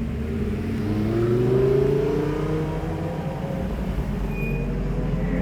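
Sports car engine accelerating: its pitch rises over the first two seconds, then levels off and eases down over a steady low rumble.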